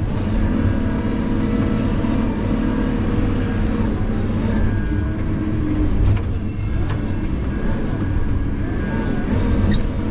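Diesel engine of a logging machine running steadily under work, heard from the operator's seat, with a thin whine that rises and fades a few times.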